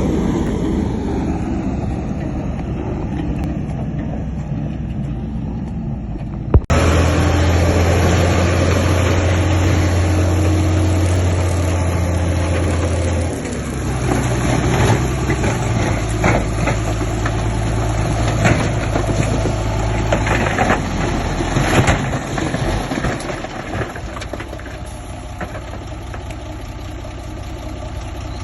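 Diesel engines of heavy earthmoving machinery running, with an abrupt change in the sound about six and a half seconds in. After it a steady low engine drone that steps up in pitch about halfway, with scattered knocks and clatter over the following several seconds.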